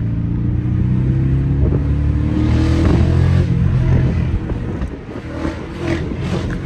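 Car engine accelerating, its revs climbing for about three and a half seconds, then falling away about four and a half seconds in.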